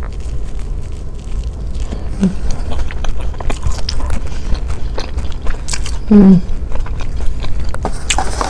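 Close-miked biting and chewing of a crunchy seeded whole-wheat avocado toast with fried egg: repeated crisp crunches and wet mouth sounds, with two brief murmured voice sounds, about two and six seconds in.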